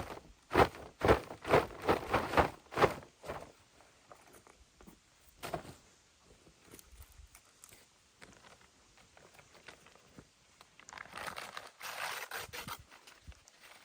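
Footsteps, about two a second over the first three seconds, then a stretch of rustling and scraping near the end.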